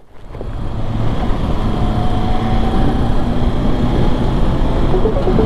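BMW S1000XR inline-four running at steady road speed, mixed with heavy wind noise on the microphone. The noise swells in over the first second, then holds steady. Faint background music begins near the end.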